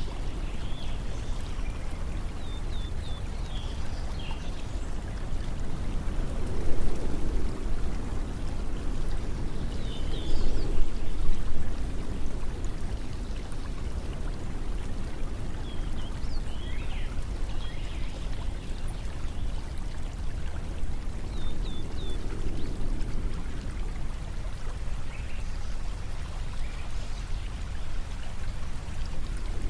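Steady rushing of flowing water, swelling now and then, with a few short, faint high chirps.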